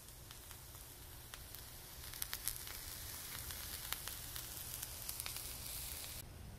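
Diced onion, garlic and mixed vegetables sizzling in oil on a hot flat-top griddle, with scattered crackling pops. The sizzle grows stronger about two seconds in and stops abruptly near the end.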